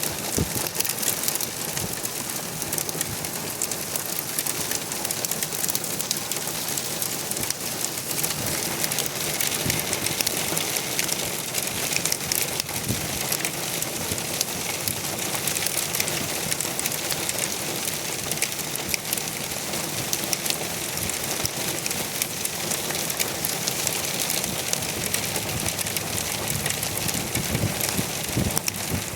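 Hail and heavy rain coming down, a dense steady patter of many sharp little ticks over a constant hiss.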